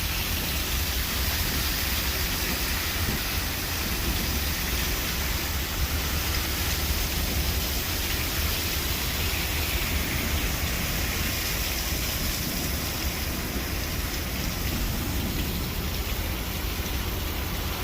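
Heavy rain falling steadily in a thunderstorm, an even hiss with a constant low rumble beneath it.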